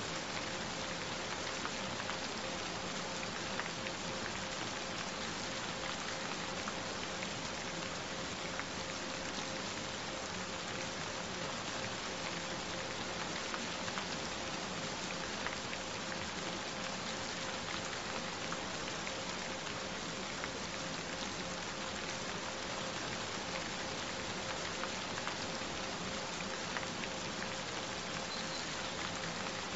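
Steady rain, an even wash of noise with scattered sharp drop ticks. A single steady tone sounds underneath it.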